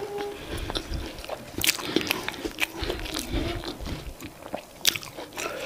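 Close-miked chewing of soft boiled food, with wet mouth clicks and smacks; two sharp clicks stand out, one near the middle and one about five seconds in.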